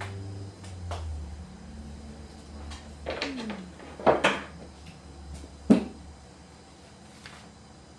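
Paper template being trimmed and taped together: a few short rustles, snaps and knocks of paper and tape being handled, the loudest a sharp one a little before six seconds in, over a low hum that fades out after the middle.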